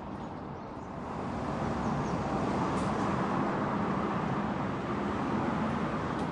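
A car on the move: steady engine and road noise that grows louder about a second in.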